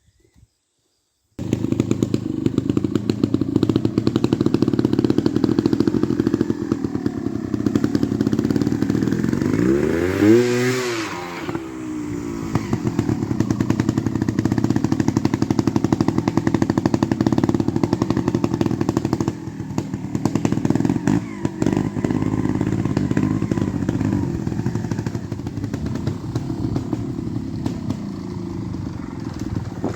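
Trials motorcycle engine running, starting about a second and a half in, with a clattery rattle. About ten seconds in it revs once, the pitch rising sharply and falling back.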